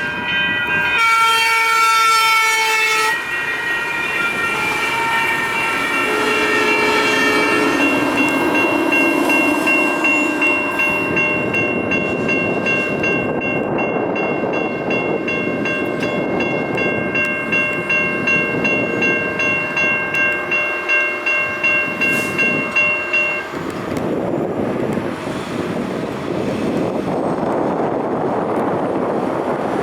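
Light rail train passing: its horn sounds a chord for the first few seconds, then a bell rings in quick, even strokes over the running noise of the train on the rails, stopping about three-quarters of the way through.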